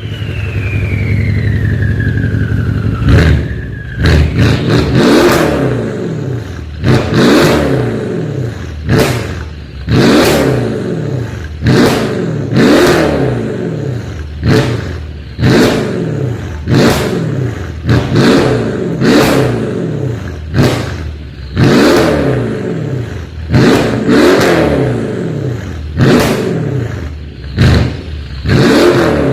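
Mercedes-Benz CLS 63's V8 through an aftermarket stainless valved racing exhaust. It runs steadily for about three seconds with a falling whine, then is revved over and over, about one sharp blip every two seconds, each rev dropping back quickly.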